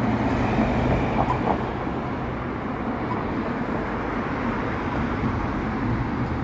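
Road traffic running past on a city street: a steady rumble of engines and tyres with a low hum throughout.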